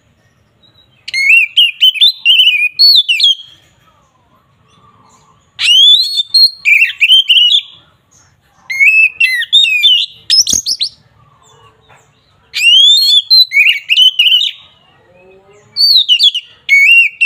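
Oriental magpie-robin (kacer) singing loud, whistled, gliding phrases in five bursts of about two seconds each, separated by short pauses, with a single sharp click midway. This is the 'ngeplong' song used as a lure to provoke rival males.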